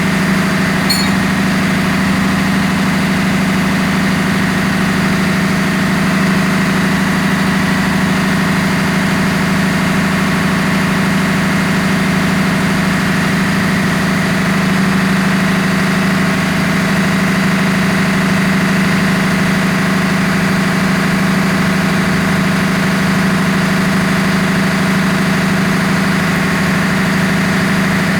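Steady, unbroken drone of running engine-room machinery: a constant low hum with a thin, steady whine above it.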